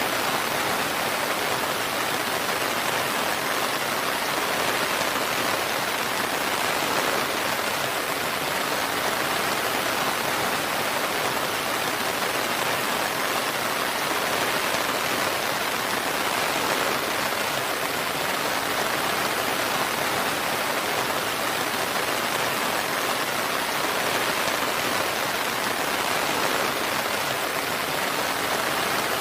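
Steady heavy rain falling, an even, unbroken hiss of dense drops.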